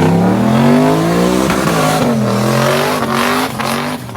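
Drag-racing car launching from the line and accelerating hard away, its engine pitch climbing and dropping back at each upshift, then fading near the end.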